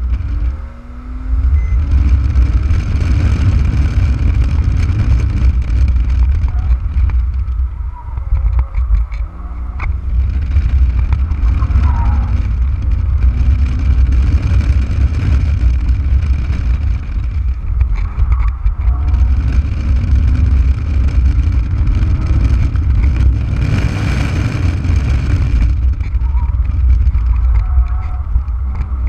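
2005 Porsche Boxster S (987) 3.2-litre flat-six driven hard on track, its note climbing and dropping repeatedly as it accelerates and lifts off, with two brief quieter moments about eight and eighteen seconds in. Heard from the open cockpit with heavy wind rumble on the microphone.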